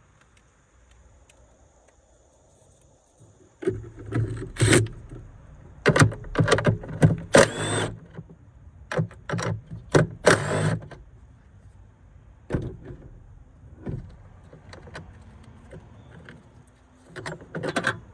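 Hand work on a car battery's hardware: a run of sharp clicks, knocks and short scraping rattles that starts a few seconds in, busiest in the middle, with scattered knocks after.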